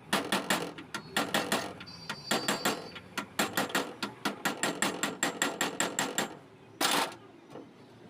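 Rapid hammer taps on metal, about five a second, in short groups and then a longer unbroken run, with one longer harsh scrape or rattle near the end.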